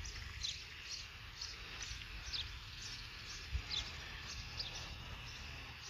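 A small bird calling over and over in short, high, falling chirps, about two a second, over a steady low rumble. A dull low thump about three and a half seconds in.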